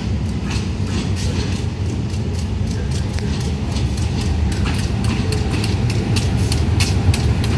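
A train moving: a steady low rumble with a run of sharp clicks and clacks that come thicker in the second half.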